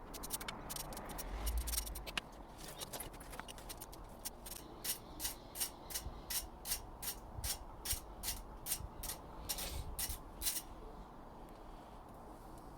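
Socket ratchet clicking steadily, about two clicks a second for several seconds, as it undoes a bolt on a CA18ET engine. Before that, irregular scraping and clinking of metal tools.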